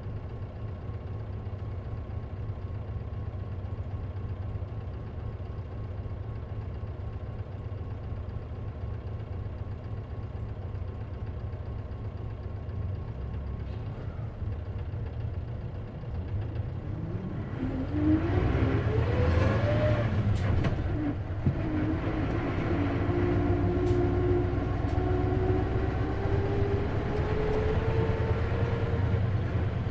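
KC-LV380N city bus heard from inside: the engine runs steadily at idle, then about 16 seconds in it revs up as the bus pulls away. A rising drone and whine build through first gear, break off at a gear change, and climb slowly again in the next gear. This bus gives off an unusual mechanical noise, which the owner suspects is a symptom of its manual transmission.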